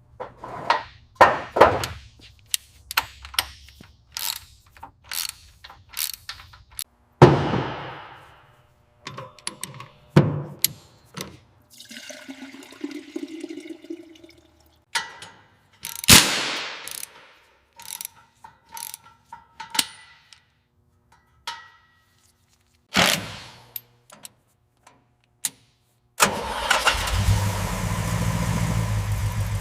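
A run of sharp clicks, knocks and whooshes, then about 26 seconds in a car engine starts up and keeps running steadily.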